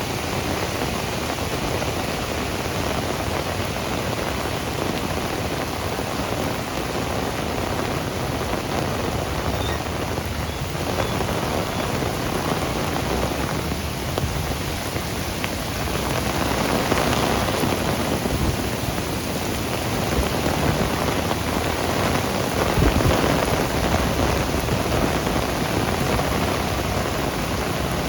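Heavy rain pouring steadily, a dense hiss of rain hitting surfaces, which grows louder about halfway through. A brief low rumble comes near the end.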